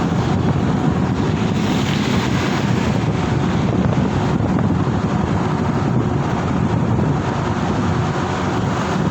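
Steady wind rushing over the microphone of a moving motorbike, with road and traffic noise mixed underneath.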